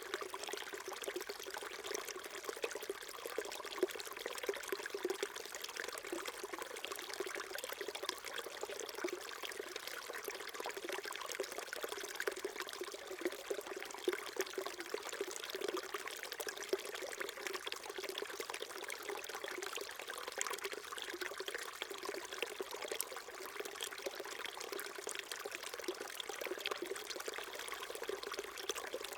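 Small stream flowing and trickling steadily over stones, a continuous burbling with no change throughout.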